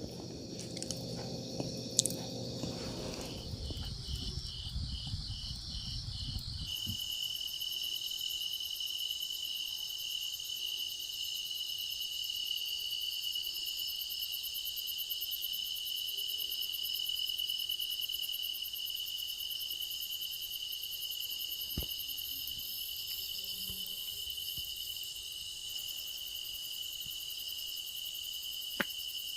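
Crickets or other insects chirping. A short run of pulsed chirps over a low noise in the first seconds gives way, about seven seconds in, to a steady high continuous trill.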